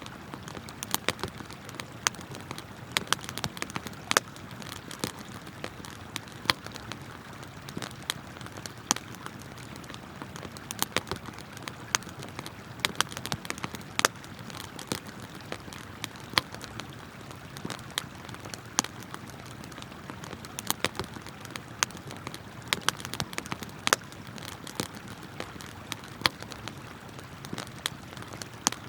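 Wood campfire crackling, with sharp irregular pops, sometimes several close together, over the steady rush of a flowing river.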